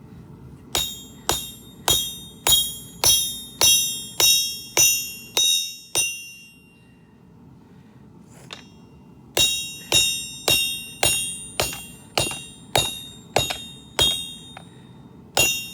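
Hammer blows on a ringing steel anvil at about two a second while forging a garden hoe: about ten strikes, a pause of roughly three seconds, then another run of about ten. Each blow leaves a bell-like ring.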